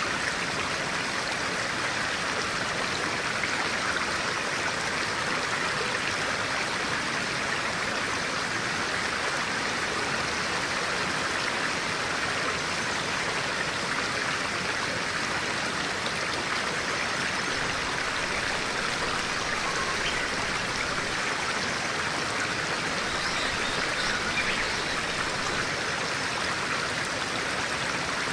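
Clear stream water flowing and babbling steadily, with a few faint bird chirps about two-thirds of the way through.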